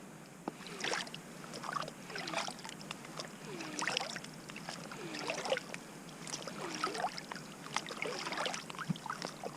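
Canoe paddle strokes in lake water, an even rhythm of about one stroke every second and a half, each with a gurgle and splash as the blade pulls through and lifts out.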